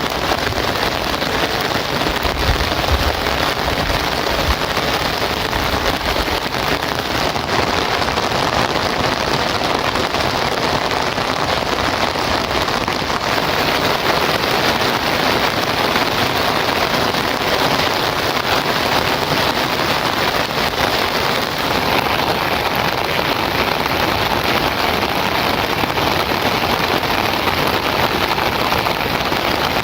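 Heavy rain falling steadily, a dense, even patter of drops, with a brief low rumble about two to four seconds in.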